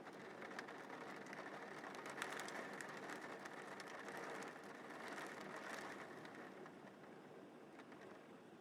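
Steady rain falling, with many small sharp drop ticks on top of a soft hiss.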